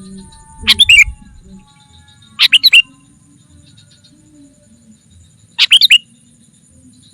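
Sooty-headed bulbul calling in three short, loud bursts of quick chattering notes, about a second in, near three seconds in, and near the end, with faint chirps between.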